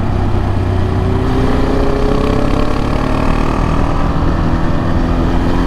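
Motorcycle engine running at road speed under wind noise, its note rising gradually through the middle as the bike accelerates.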